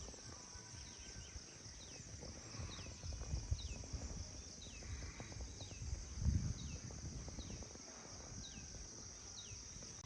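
A bird repeating a short falling call roughly every two-thirds of a second over a steady high drone of insects, with scattered low thumps, the loudest about six seconds in.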